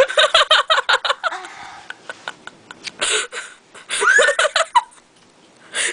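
People laughing in quick repeated bursts, followed by breathy sounds and a short voiced exclamation, in reaction to a foul-tasting jelly bean.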